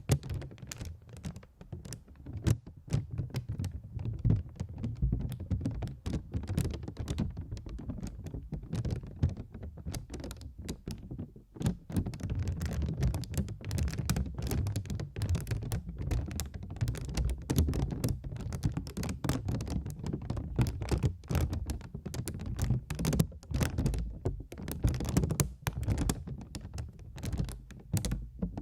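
Fast, irregular tapping and clicking with soft low thuds underneath, made close to the microphone as an ASMR trigger.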